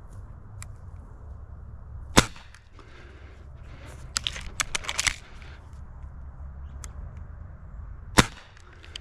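Two airgun shots about six seconds apart, each a single sharp crack, with a run of quick lighter clicks between them.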